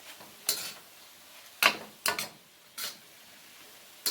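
A cooking utensil scraping and knocking against a frying pan as chicken and onions are stirred: five short, separate strokes, irregularly spaced.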